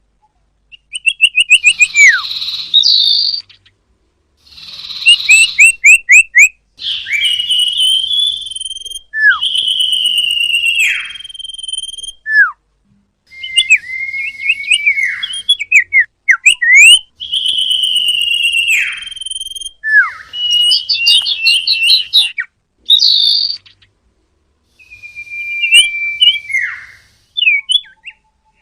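Common iora (cipoh, or sirtu) singing and calling: clear whistled notes, long notes that slide down in pitch, and quick stuttering runs of short notes, in phrases broken by brief pauses.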